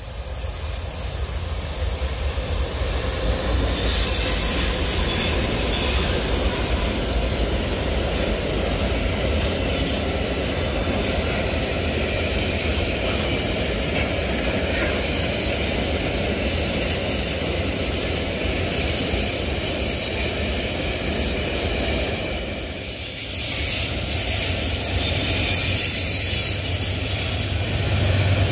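Vale freight train on the EFVM passing at close range. The GE Dash 9 diesel locomotive comes up over the first few seconds. Then a long string of loaded hopper cars rolls by with a steady rumble of steel wheels on rail and clicking over the joints, and near the end a deep engine hum grows as a mid-train locomotive approaches.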